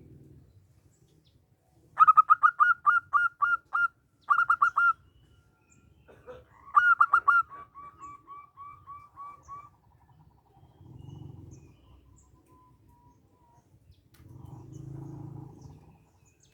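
Zebra dove (perkutut) singing: a quick run of short, clipped cooing notes about two seconds in, a second short run right after, and another loud run around seven seconds in that trails off into softer, evenly repeated notes. A low background rumble swells twice near the end.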